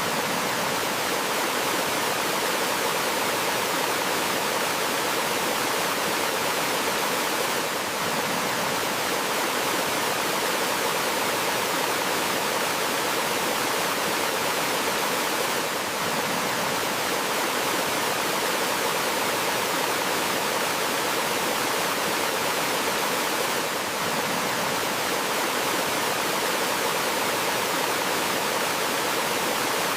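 Water rushing steadily over rocks in a small waterfall or stream: an even, hissing wash with no birdsong standing out, dipping very slightly about every eight seconds.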